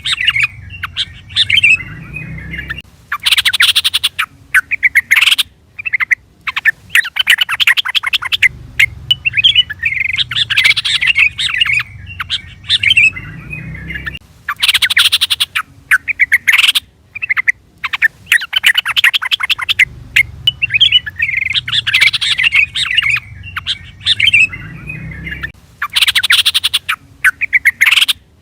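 Yellow-vented bulbul (trucukan) calling: bursts of rapid, bubbling chattering phrases with short gaps between them. The same run of phrases comes round about every eleven seconds.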